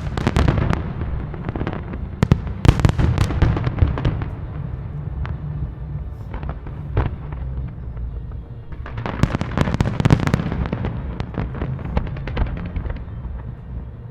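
Large fireworks display: rapid volleys of sharp bangs and crackling shell bursts. They are densest in the first few seconds and again past the middle, with sparser reports in between, over a steady low rumble.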